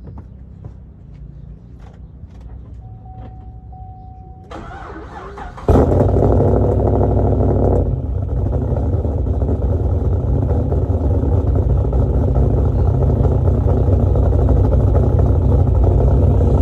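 A few light clicks and a short beep, then the cammed LS3 6.2-litre V8 of a 2010 Camaro SS is cranked and fires about six seconds in on a cold start. It flares up briefly, then settles into a loud, lumpy idle from its big stage 4 cam, breathing through long-tube headers and performance mufflers.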